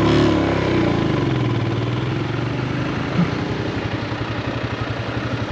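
Motorcycle engine dropping in speed over the first second, then idling steadily with an even firing pulse.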